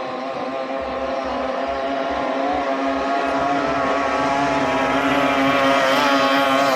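18 hp outboard motor of a racing speedboat running flat out at a steady high pitch, growing gradually louder as the boat approaches.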